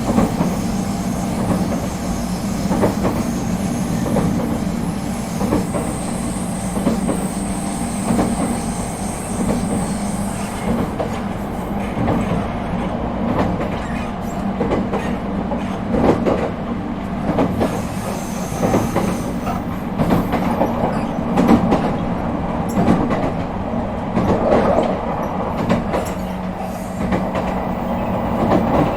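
Echigo Tokimeki Railway ET127 series electric train (refurbished with Toyo IGBT-VVVF inverters) running at speed, heard from inside the car: a steady running rumble and hum with irregular clicks of wheels over rail joints. A thin high squeal sounds for a few seconds in the first third.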